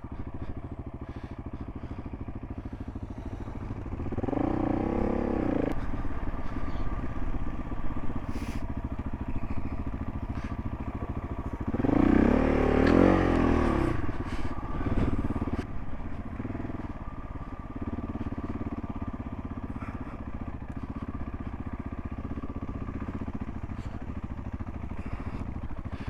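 Single-cylinder dual-sport motorcycle engine running at low speed over loose, slippery gravel. It is revved up twice with a wavering pitch, about four seconds in and again near the middle.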